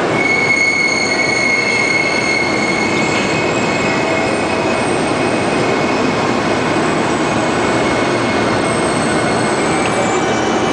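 Train moving along the track, with a steady loud rumble and a high metallic squeal of several level tones, strongest in the first few seconds and fading, returning faintly near the end.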